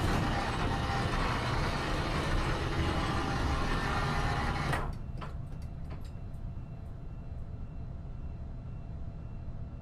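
A loud, steady rushing hiss that cuts off abruptly about five seconds in, leaving a quieter low rumble with a few light clicks.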